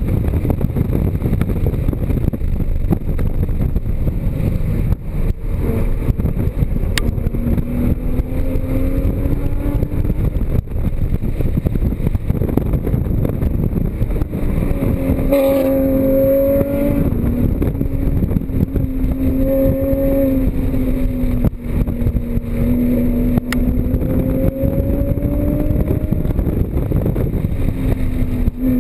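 Porsche Cayman GTS's mid-mounted flat-six under hard track driving, its pitch climbing and dropping again and again through the gears and corners. A heavy low rumble of road and wind noise runs underneath.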